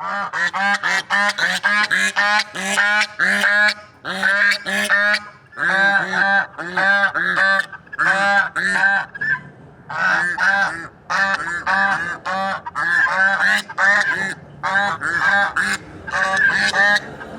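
Big swans honking loudly, short arched calls repeated in quick runs and broken by brief pauses.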